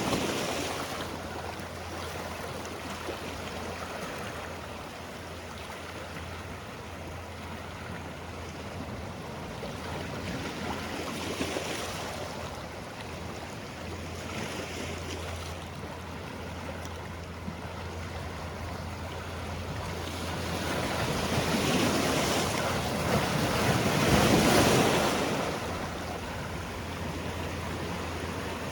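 Sea waves washing against the shore in a continuous rush, swelling with each incoming wave; the biggest surge comes about 24 seconds in. A steady low hum runs underneath.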